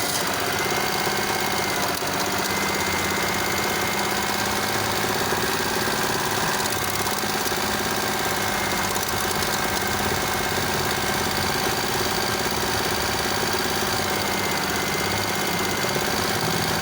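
Suzuki F6A 12-valve three-cylinder engine running steadily at an even speed.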